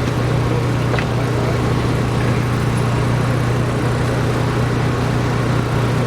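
An engine running steadily at an even speed, a constant low hum that does not change, with a faint click about a second in.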